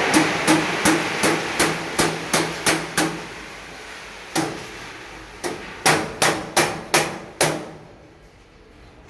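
Hammer blows on metal: a quick run of about nine strikes, roughly three a second, then a single blow, then five more, each leaving a short metallic ring.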